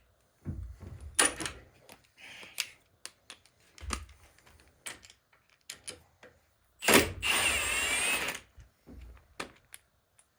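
Clicks and knocks of hand tools and metal transmission parts being handled. About seven seconds in, a power tool runs for about a second and a half; this is the loudest sound.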